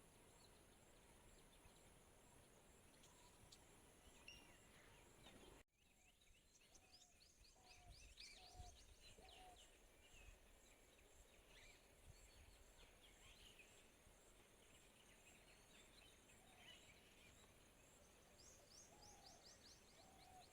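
Faint forest ambience with birds calling: many quick, high, falling chirps and a repeated short lower call over a soft background hiss, with an abrupt edit cut about five and a half seconds in.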